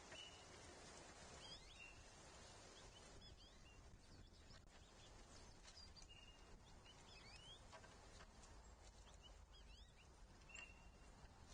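Faint bird calls: a short level whistled note heard three times, with quick slurred chirps in between, and a few faint ticks.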